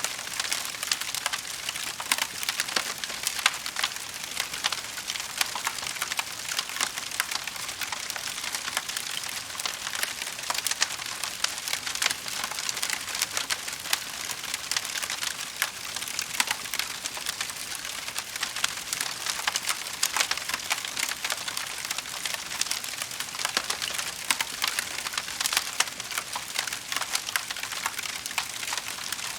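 Wood fire crackling in a fireplace: a steady, dense run of small snaps over a soft hiss.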